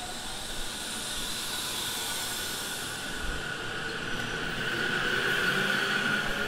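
E257 series electric limited express train pulling away from a station platform and picking up speed. The rolling noise of the cars grows louder, and a steady electric-motor whine builds in the second half.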